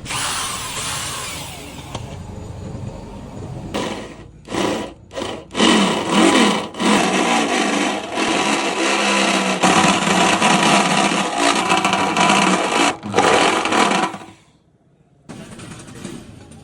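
Power tool running in a few short bursts about four seconds in, then steadily for about eight seconds before stopping near the end.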